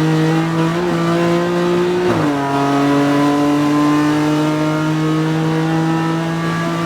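BMW M4 GT4 race car's twin-turbo straight-six engine pulling under acceleration, its pitch climbing slowly. About two seconds in the pitch drops sharply with an upshift, then climbs steadily again through the next gear.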